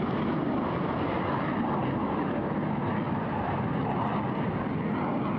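Eurofighter Typhoon's twin EJ200 turbofan jet engines heard during a display pass: a steady jet noise that holds an even level throughout.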